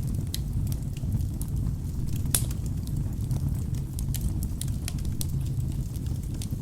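Wood fire burning in a fireplace: a steady low rumble of flames with frequent sharp crackles and pops from the logs, one louder pop a little over two seconds in.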